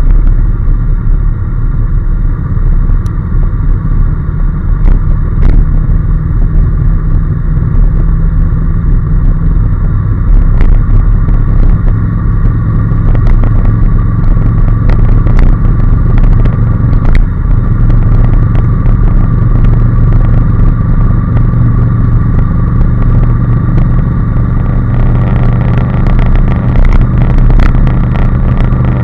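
Honda NC750S's 745 cc parallel-twin engine running steadily at road speed, heard from the moving bike along with wind and road noise. Occasional light clicks and knocks come through.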